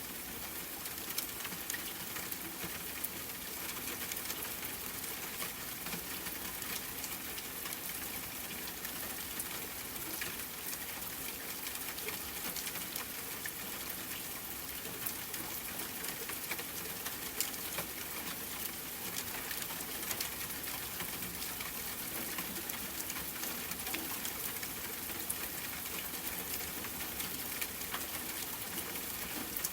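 Steady rain falling, a gentle patter with many small drop ticks over an even hiss.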